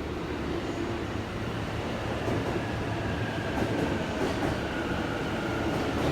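Train running on its rails: a steady low rumble with a faint whine, slowly growing louder.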